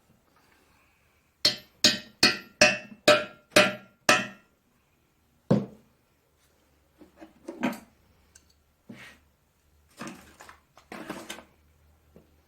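Hammer striking a cape chisel to cut a seized, broken-off brass pipe thread out of an old engine's water hopper drain. Seven quick ringing metal blows, one more a moment later, then lighter knocks and scraping as the chisel is repositioned.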